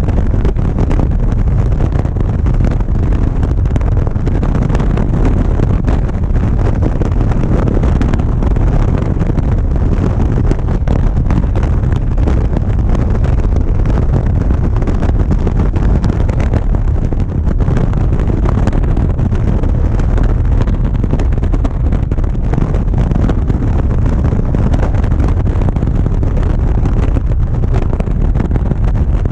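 Motorcycle riding at a steady cruising speed: a constant low engine rumble mixed with heavy wind noise buffeting the microphone, with no change in engine pitch.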